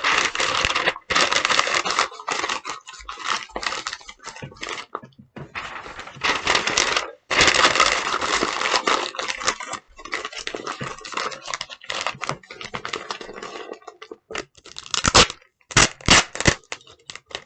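Paper crinkling and tape being pulled and torn in irregular bursts, ending in a few sharp separate rips.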